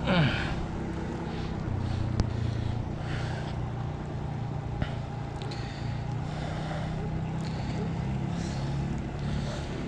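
A motor running steadily with a low, even hum. Brief scuffing noises and a couple of sharp clicks come and go over it.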